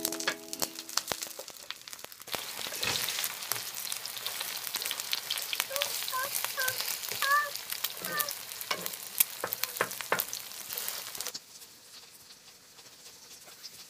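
An okonomiyaki frying on an electric griddle: steady sizzling with many sharp crackles and pops, and a spatula scraping the plate. The sizzle cuts off suddenly near the end.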